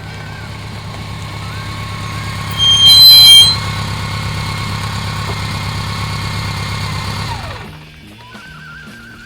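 Motorcycle engine running steadily while riding, with a brief loud high-pitched sound about three seconds in. The engine fades out near the end and music takes over.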